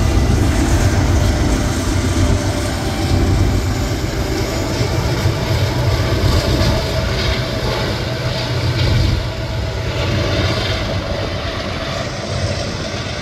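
Freight train of hopper cars rolling past, a steady loud noise of steel wheels on rail that grows a little quieter toward the end.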